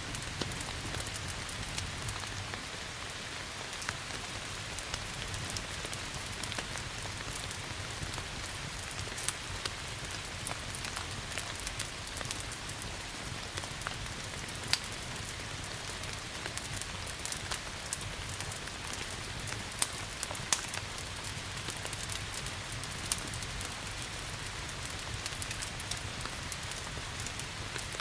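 Steady rain hiss mixed with the scattered sharp crackles and pops of a wood fire, a few louder pops standing out.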